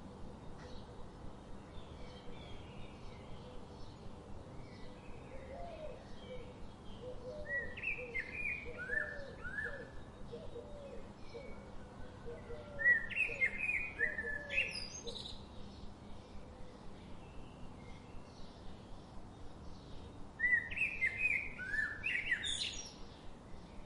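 Songbirds singing in short bursts of quick, sweeping chirps, loudest about a third, halfway and near the end, with a run of lower falling chirps in the first half. Under them runs a steady hiss with a faint pulse about four times a second.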